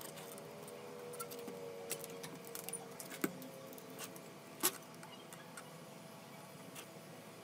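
Light clicks and clinks of small metal tools and parts being handled, two sharper ones a little past three and four and a half seconds in, over a faint steady tone.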